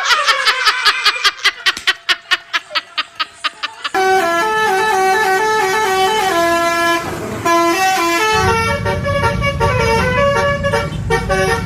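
Basuri telolet bus horn: a fast run of short pulses, then a quick tune of steady, stepping notes. A low rumble joins under the tune for the last few seconds.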